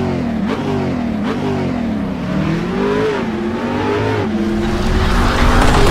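Car engine revving up and down over and over, getting louder near the end, most likely as a sound effect in an intro.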